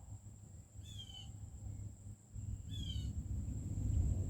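A bird calling: a short, harsh call with falling notes, given twice, about two seconds apart, over a low rumble that grows louder near the end.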